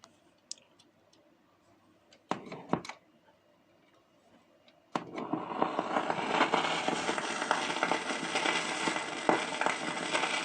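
Vinyl LP before the music: a few faint clicks and a brief knocking about two seconds in, then from about five seconds the stylus is in the lead-in groove, giving steady surface hiss with crackle and pops.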